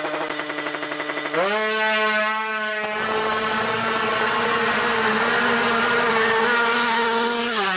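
Drag-racing motorcycle engine held at the line: running at a low steady idle, then about a second and a half in the revs jump up and are held steady at a higher pitch for about six seconds, dropping back near the end.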